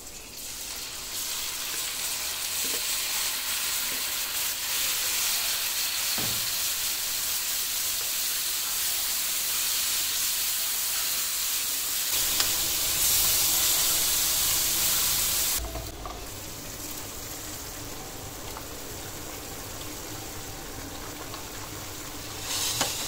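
Marinated chicken pieces sizzling in hot oil in a frying pan, stirred with a wooden spoon. The sizzle drops suddenly about fifteen seconds in and goes on more quietly, with a brief louder burst near the end as chopped vegetables are slid into the pan.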